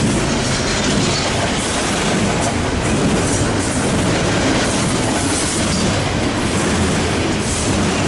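Double-stack container freight cars rolling past in a steady, loud stream: a continuous rumble with the clickety-clack of wheels over the rail joints.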